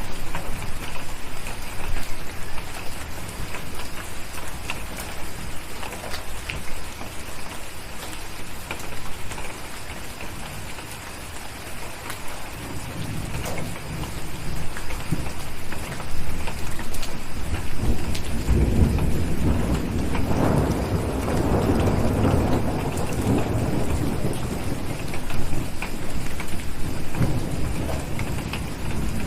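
Steady rain with scattered small crackles, and a rumble of thunder that builds about halfway through, is loudest around two-thirds of the way in, then dies away.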